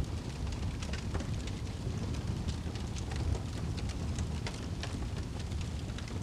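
Wood fire burning in a fireplace: a steady low roar of flames with frequent irregular sharp crackles and pops from the burning logs.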